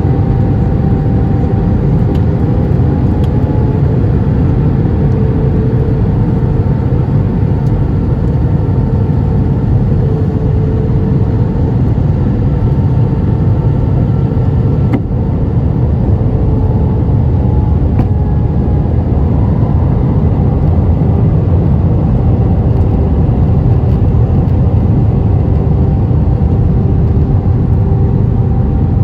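Airbus A320 airliner heard inside the passenger cabin: a steady low roar of engines and rushing air, with faint steady humming tones from the engines.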